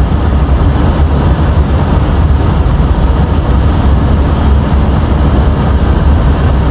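Steady flight-deck noise of an Airbus A320 in flight: a continuous rush of airflow and engine noise with a heavy low rumble.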